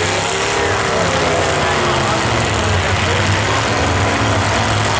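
Engines of full-size stock demolition derby cars running steadily, with an indistinct voice over them.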